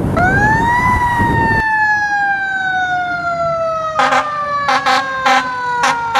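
Fire truck siren winding up quickly, then slowly winding down in pitch, in the manner of a mechanical siren coasting. Over it, about four seconds in, comes a run of short, sharp air-horn blasts.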